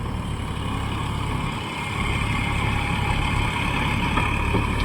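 Massey Ferguson 254 Dynatrack 4WD tractor's diesel engine running steadily under load in third gear low, driving a 72-blade rotavator through the soil. It gets a little louder about two seconds in.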